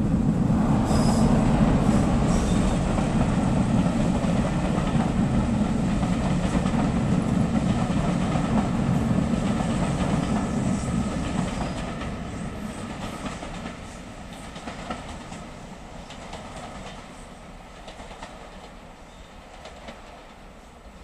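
Diesel-hauled passenger train passing close by, a heavy running rumble with wheels clicking over the rail joints. It is loudest in the first few seconds and fades steadily from about twelve seconds in as the coaches run away into the distance.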